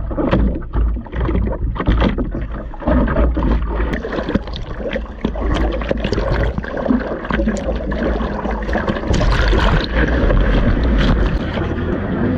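Sea water splashing and sloshing around a surfer in the waves, with strong wind buffeting the action camera's microphone as a steady low rumble.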